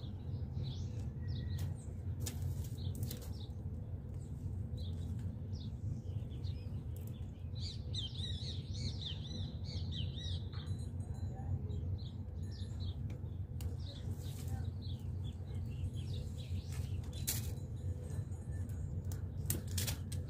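Small birds chirping and twittering, busiest about eight to ten seconds in, over a steady low rumble, with a few sharp clicks scattered through.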